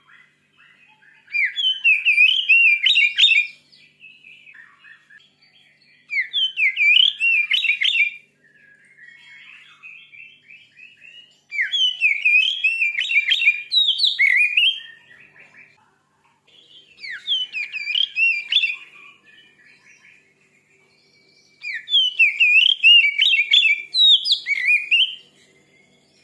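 Oriental magpie-robin (kacer) singing: five loud bursts of rapid, varied whistled notes, each a couple of seconds long, with softer twittering in the gaps.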